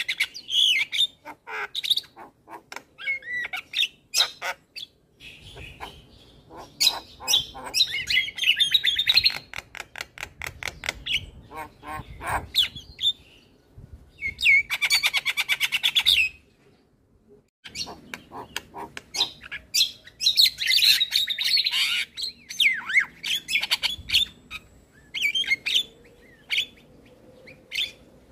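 Male Javan myna singing a long, varied song of chattering whistles, harsh squawks and clicks, packed with imitated calls. About halfway through comes a fast rattling trill, followed by a short pause before the song resumes.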